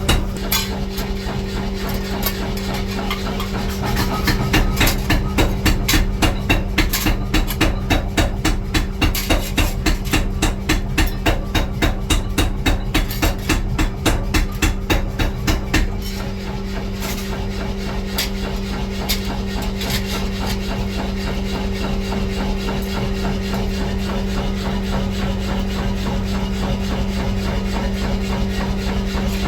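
Rapid, even hammer blows on steel, about three a second, from about four seconds in until about sixteen seconds, over a steady machine hum that carries on alone afterwards with a few scattered clicks.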